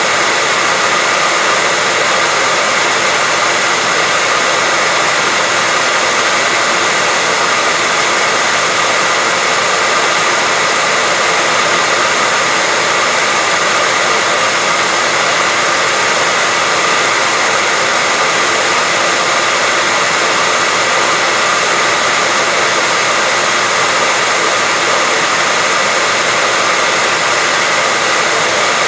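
Hair dryer running steadily with a constant rushing blow and a faint steady whine, played as continuous white noise to soothe a baby to sleep.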